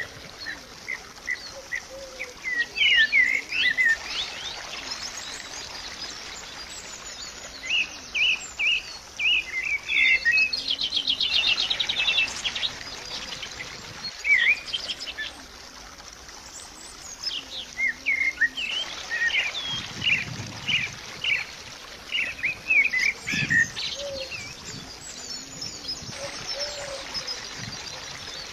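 Birds chirping and singing in groups of short high chirps with quieter gaps between, including a fast trill about eleven seconds in, over a steady background hiss.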